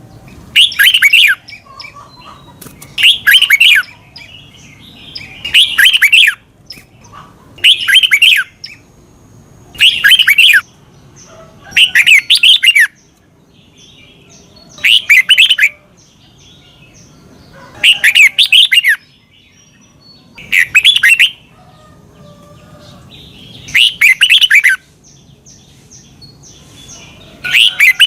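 Red-whiskered bulbul singing: about a dozen short, loud, bright whistled phrases of quick up-and-down notes, one every two to three seconds, with faint chattering between them.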